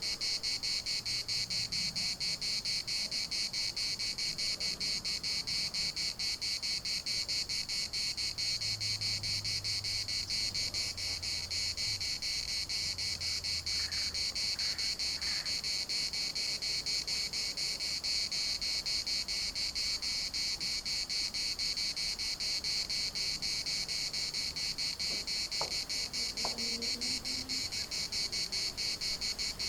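A chorus of cicadas singing: a steady, high-pitched buzz with a fast, even pulse.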